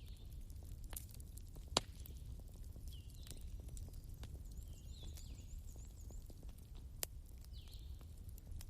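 Wood bonfire burning with a low steady rumble and scattered sharp crackling pops, the loudest just under two seconds in. Birds chirp repeatedly in the background.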